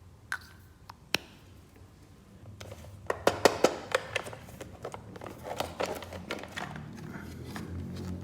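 Hands handling plastic toy pieces and packaging: a few sharp clicks early, then a quick cluster of clicks and taps about three seconds in, followed by softer rustling and clatter.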